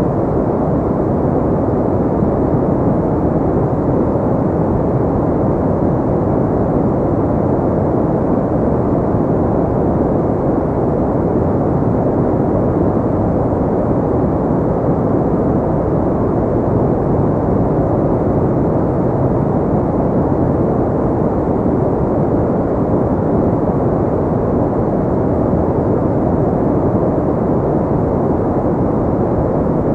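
Pink noise: a steady, even rushing sound that never changes in level, with most of its weight in the low and middle range and little treble.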